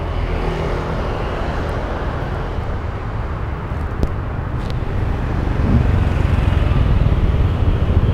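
A motor vehicle's engine running close by: a steady low hum over outdoor street noise, getting louder about five and a half seconds in. Two faint clicks come around four seconds in.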